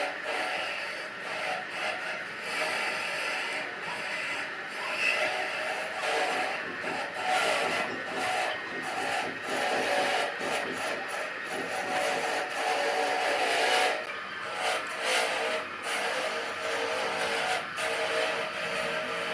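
Rough, irregular scraping and rubbing of a tool working wood, over a steady hum.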